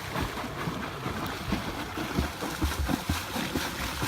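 Lake water splashing and sloshing close by, with irregular low knocks.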